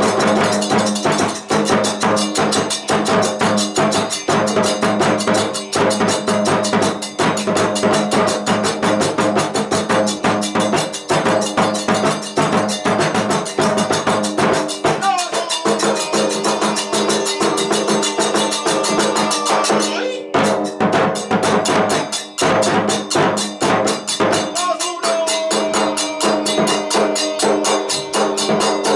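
Kagura festival music: fast, steady drumming and sharp percussion strokes over held pitched notes, with a short break about twenty seconds in.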